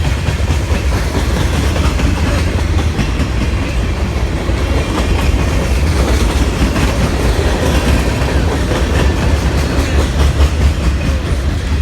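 Freight train cars rolling past at close range: a steady, loud rumble with the wheels clacking over the rail joints.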